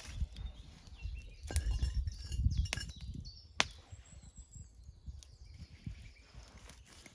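Outdoor forest ambience: small birds chirping, low wind rumble on the microphone, and a few sharp clicks or clinks, the loudest about three and a half seconds in.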